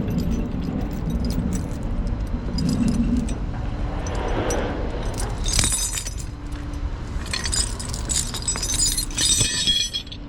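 Tow truck's engine running steadily, with bursts of metallic jingling and clinking about five and a half seconds in and again over the last few seconds.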